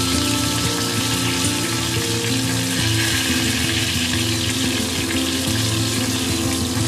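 Coated chicken wings frying in hot oil in a cast iron pot, a steady sizzle, over background music.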